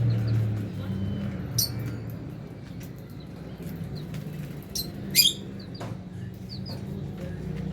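Lovebirds giving a handful of short, high, sharp chirps, the loudest about five seconds in, with small clicks among them, over a steady low hum.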